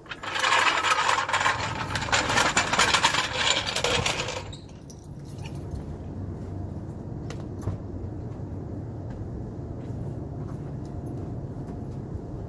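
Starter cranking the turbocharged 2005 Hyundai Tiburon's 2.7 L V6 for about four seconds, a loud rapid clattering, and then the engine running at a low, steady idle through the new custom exhaust.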